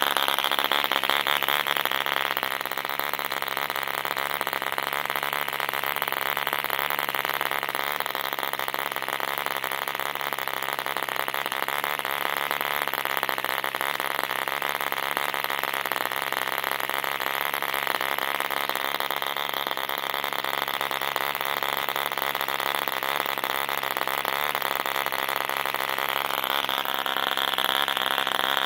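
Movo D2 model aircraft diesel engine running steadily, driving a 10x5 propeller. Its speed eases slightly a couple of seconds in and picks up again near the end.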